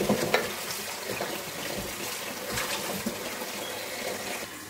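Onions and ground spices frying in oil in an aluminium pot, a steady sizzle with the irregular scrape of a wooden spatula stirring them.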